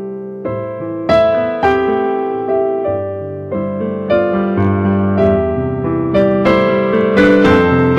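Slow, gentle keyboard music: sustained piano chords struck one after another, each fading slowly.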